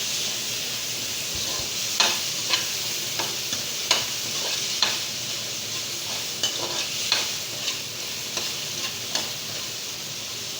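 Garlic, onions and tomato sizzling in hot oil in a pan while being stirred, with irregular scraping clicks of the utensil against the pan about once a second.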